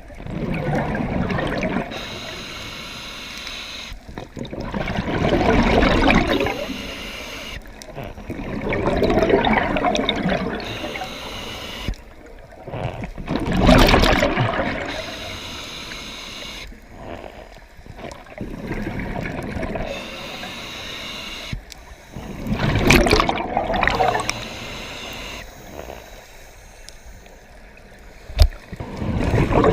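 Water gurgling and bubbling in surges that swell and fade every four to five seconds.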